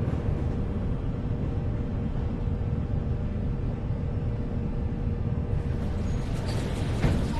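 Metro train running, a steady low rumble with a faint steady whine over it, and a brief louder swell near the end.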